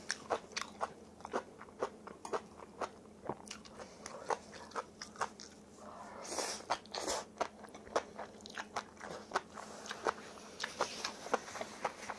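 A person chewing crunchy food, a steady run of crunches and wet mouth clicks at about two or three a second, with a short hissing noise about six seconds in.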